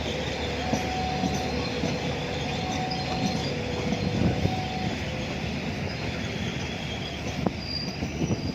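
Train cars rolling past on the rails, a steady rumble, with a faint on-and-off squeal from the wheels.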